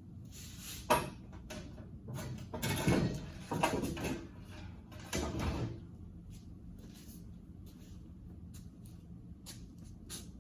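A sharp knock about a second in, then several seconds of scraping and sliding handling noise from tools and parts being worked on, followed by a few light clicks.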